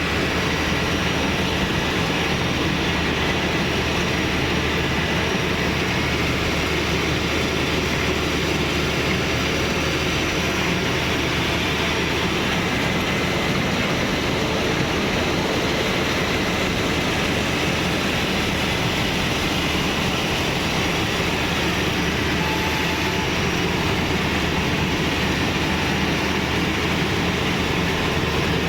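Bimo Plus rice harvesting machine running steadily, a constant engine hum under a dense, even mechanical noise.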